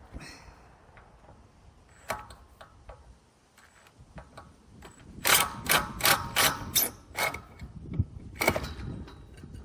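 Sharp metallic clicks from tool work on an antenna mount's metal fittings. A few scattered clicks are followed, past halfway, by a quick run of about seven loud ones, and there is one more near the end.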